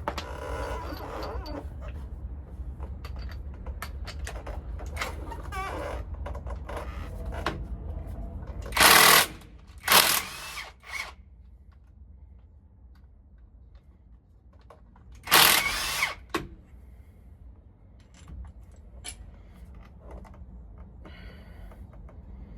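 Power tool run in three short loud bursts, loosening the bolts of the driveshaft's U-joint straps, among scattered clicks and knocks of hand tools on metal over a low steady hum.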